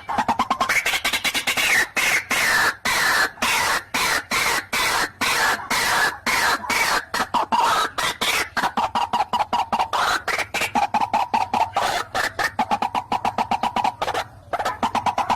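White-breasted waterhen (ruak-ruak) calling: a long, rapid series of harsh repeated croaking notes, about two to three a second at first, becoming faster and more even about halfway through. This is the calling used to draw a rival waterhen.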